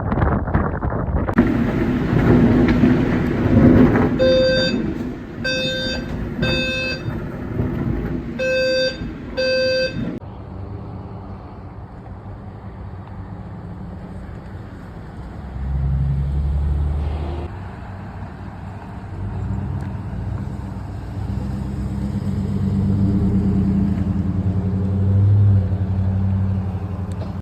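Storm wind rushing over the microphone, with about six short electronic beeps from a horn or alarm over it. Then a lower, steady hum and rumble like a vehicle engine running.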